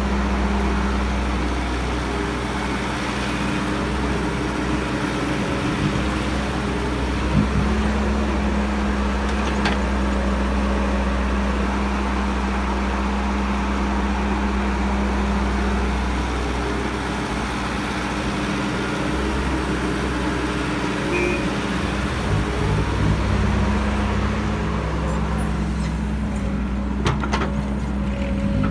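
Heavy diesel earthmoving machinery running steadily, with a few sharp knocks and clanks along the way.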